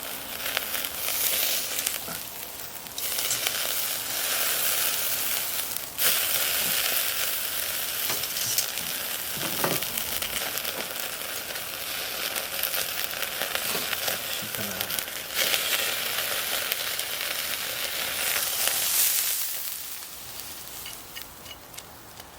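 Food frying with a dense, steady sizzle that grows and drops in level a few times and dies down near the end.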